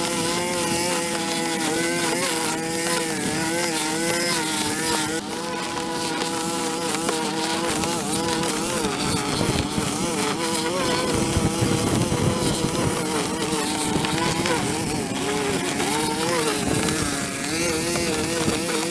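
Small petrol engine of a handheld yard power tool running steadily at high speed, a continuous whine that wavers slightly up and down in pitch.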